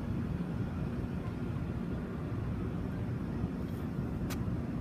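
Steady low outdoor rumble, with one sharp click about four seconds in.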